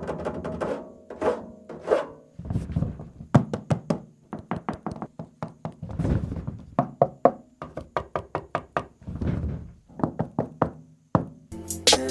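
A run of irregular knocks and clicks. Near the end, music starts loudly from the Boat PartyPal 600 party speaker.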